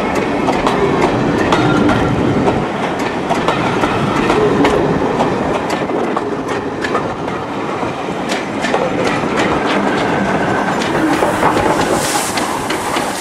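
Train of passenger coaches passing close by, wheels clicking steadily over rail joints with faint wheel squeals. Near the end the Bulleid Light Pacific steam locomotive 34027 'Taw Valley' goes by.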